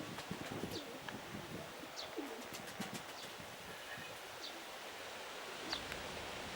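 Domestic pigeons cooing softly, with short high chirps from a small bird repeating about once a second over a steady outdoor hiss.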